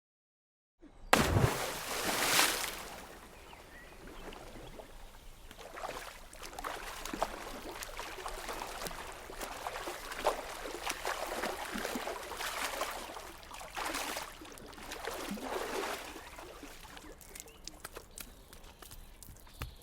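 Water splashing: a loud splash about a second in, then repeated surges of splashing, thinning to small scattered drips near the end.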